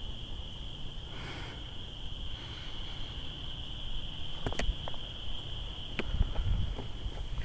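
Insects calling in a steady, unbroken high-pitched drone, with two sharp clicks about four and a half and six seconds in, over a low rumble.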